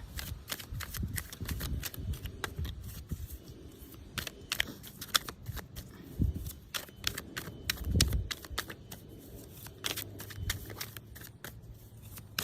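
A deck of Radiant Rider-Waite tarot cards being gathered and shuffled by hand: a steady run of quick papery flicks and clicks, with a couple of low thumps from handling about six and eight seconds in.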